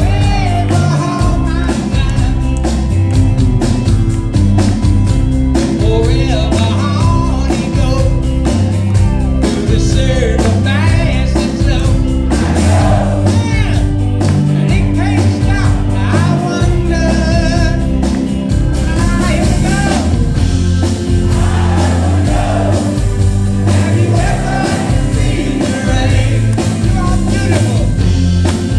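Live rock band playing a mid-tempo song, with lead vocals and backing singing over guitars, bass and drums.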